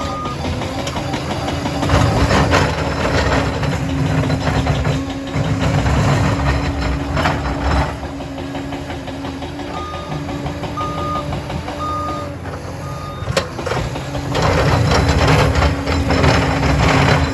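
Liebherr PR 746 crawler dozer working: its diesel engine rises and falls under load, twice building up to a heavy, clattering peak. Its reversing alarm beeps about once a second at the start and again about ten seconds in, as it backs up.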